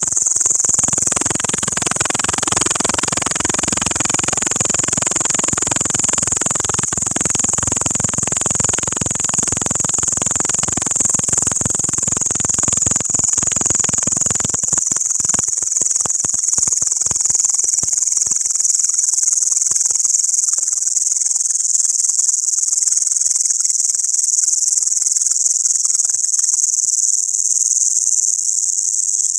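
An insect, which the uploader calls a locust, singing a continuous, loud, high-pitched buzz. A lower noisy rush sits underneath through the first half and dies away about halfway through.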